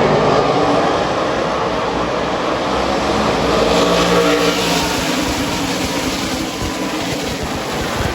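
NASCAR Craftsman Truck Series race trucks running at speed on the track, a continuous engine noise that swells about halfway through and then fades.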